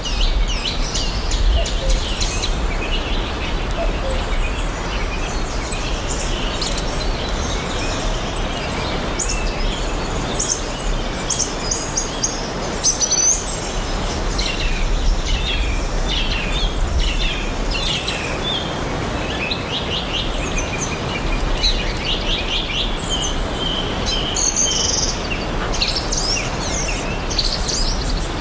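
Many small songbirds chirping and trilling throughout, over a steady even hiss of outdoor background noise.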